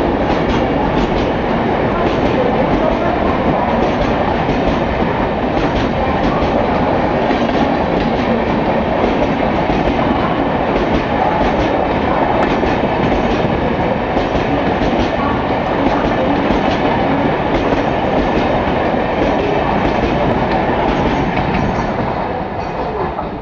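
Express train running through a station at speed: a loud, steady rumble with rapid clattering of the wheels over the rail joints, dying away near the end.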